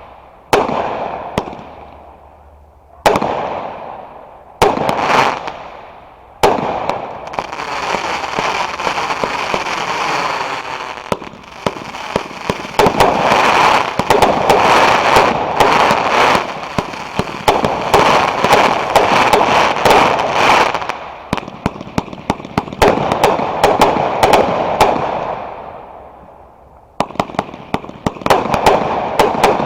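Fireworks going off. First comes a few single loud bangs, each with an echoing tail. From about six seconds in, a long stretch of dense crackling and rapid pops runs until about twenty seconds and then fades. Near the end a fresh volley of sharp reports starts.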